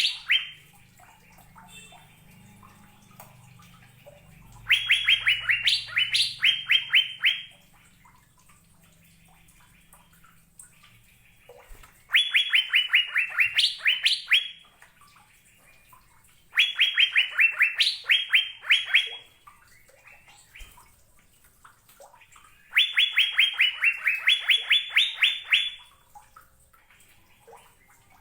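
Cucak biru (Asian fairy-bluebird) singing: four phrases of about a dozen rapid, clear, high notes, each lasting two to three seconds with pauses of a few seconds between, the last phrase starting again near the end.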